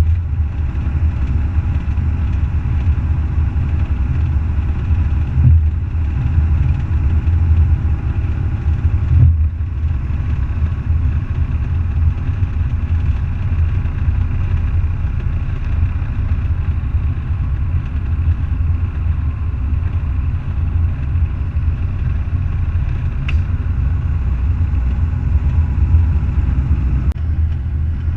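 Semi truck's diesel engine running steadily, a deep low rumble.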